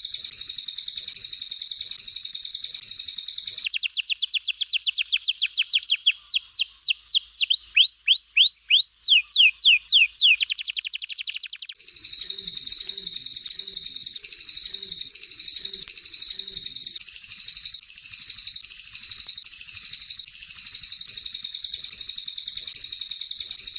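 Songbird song used as masteran training audio, canary and cililin. A rapid, high, buzzing trill gives way about four seconds in to a run of fast downward-sweeping notes lasting about eight seconds, and then the high trill returns.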